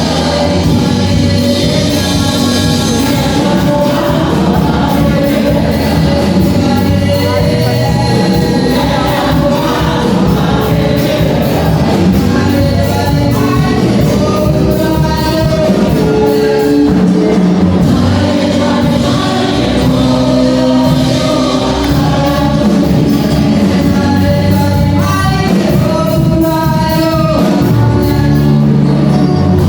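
Music: a choir singing with instrumental backing, in a gospel style.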